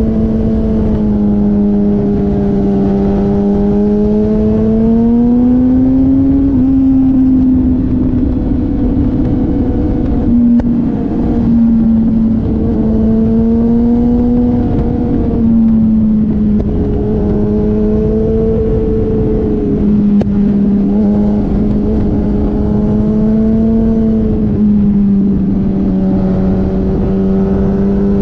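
Motorcycle engine running under way, heard from on the bike, its note rising and falling gently as the throttle changes, with wind rushing over the microphone.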